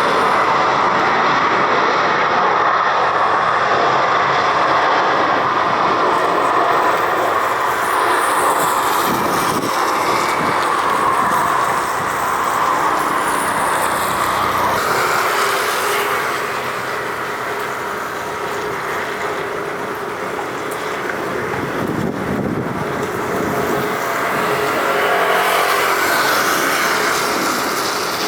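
Jet airliner engine noise, loud and steady: a Boeing 747-400 freighter, then after a change about halfway through, an Airbus A350-900. The A350's noise swells again near the end as it approaches.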